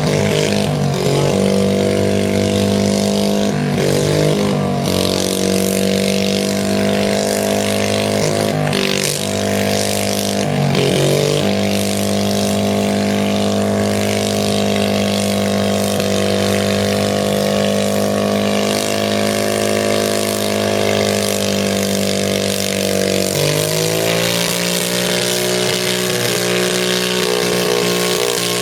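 Garden tractor engine running hard at high, steady revs while pulling a sled in low gear. Its speed sags and recovers several times in the first eleven seconds, then holds steady, and it drops to a lower speed about 23 seconds in.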